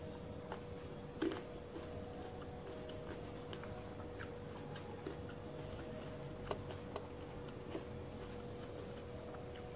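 Close-up mouth sounds of chewing a black grape: scattered wet clicks and smacks, the loudest about a second in, over a faint steady hum.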